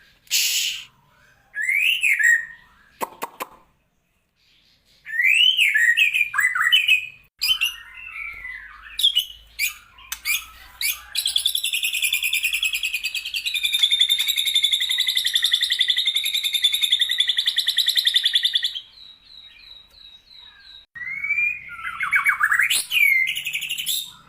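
White-rumped shama singing a varied song of rising and falling whistles, chirps and squawks, laced with mimicked calls of the cucak jenggot and lovebird. In the middle comes one long, fast chattering trill lasting about eight seconds.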